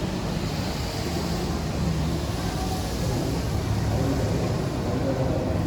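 Rainy city street ambience: a steady hiss of rain and wet road with the low rumble of passing traffic.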